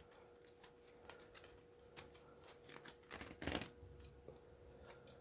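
Faint clicks and crackles of plastic insulation being pried and pulled off copper wire by hand, with a louder burst of clicking and rustling about three and a half seconds in.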